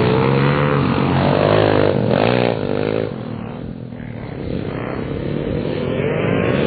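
Small pit bike engine revving on a track, its pitch rising and falling with the throttle; it backs off and quietens about three seconds in, then builds up again near the end.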